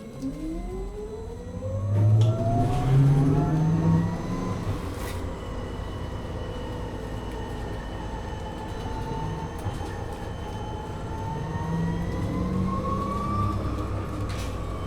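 MAN Lion's City NL253 Hybrid bus pulling away, heard from inside the bus. The whine of its electric drive climbs steeply in pitch over the first two seconds, then keeps rising slowly and levels off. Underneath runs the low rumble of the diesel engine, loudest about two to four seconds in and again near the end.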